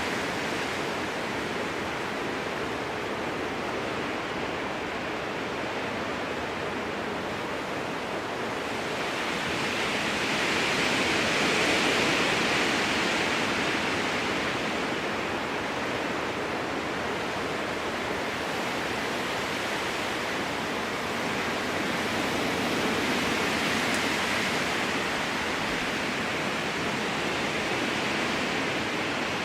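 Strong wind rushing through spruce trees, a steady roar that swells in a gust about ten seconds in, eases, and swells again more gently near the end.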